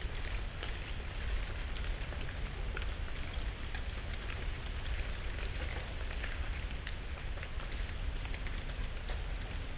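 Dry autumn leaves falling and landing on leaf litter: a continuous, irregular scatter of light ticks and patters, over a low steady rumble.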